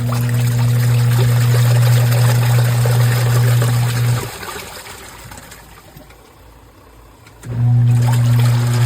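Twin tub portable washing machine's wash motor humming steadily as it churns water and clothes. The hum cuts out about four seconds in, leaving quieter water sloshing, then starts again near the end, the stop-and-start of the wash cycle's agitation.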